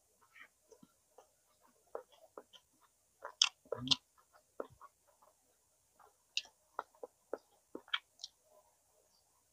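Close-up eating sounds of a person chewing smoked chicken: irregular wet clicks and smacks, with a louder cluster of crunches and a low thump about three and a half seconds in.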